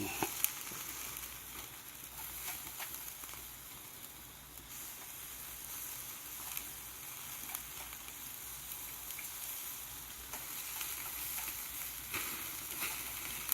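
Meat sizzling on a grill over a fire pit, a steady hiss with scattered small pops and crackles.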